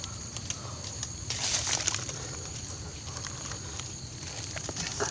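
Scattered scrapes, taps and rustles of hands and a tool working soil at a kingfisher's nest hole in an earth bank, with a louder rustle about a second and a half in, over a steady high hiss.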